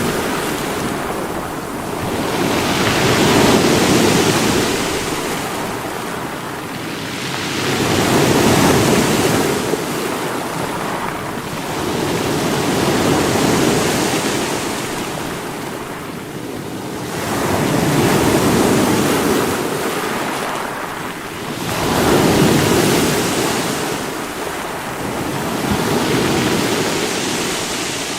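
Sea waves breaking against rocks, the surf rising and falling in swells about every four to five seconds.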